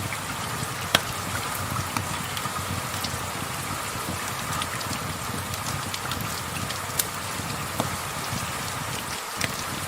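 Steady rain, with a few sharp pops of a wood fire crackling over it, the loudest about a second in.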